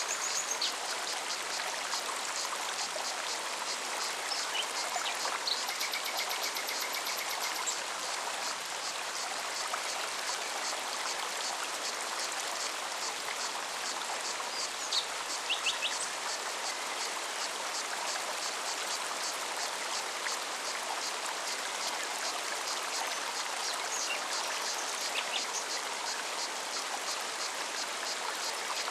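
Mountain forest stream flowing steadily over rocks, with a cicada's rapid regular pulsing above it and a few brief bird chirps and whistles.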